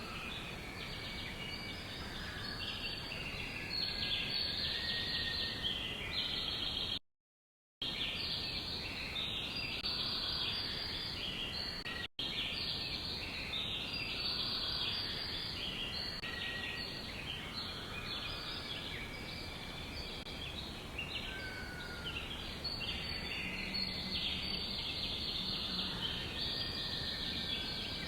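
Many songbirds chirping and trilling at once in a dense, continuous chorus over a steady background hiss. The audio drops out completely for under a second about seven seconds in, and again for an instant a few seconds later.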